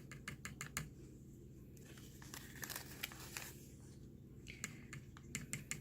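Small plastic measuring scoop clicking and scraping as powder is dug out of its container and knocked off: quick runs of light clicks, several a second, at the start and again near the end, with a rustling scrape in between. Faint.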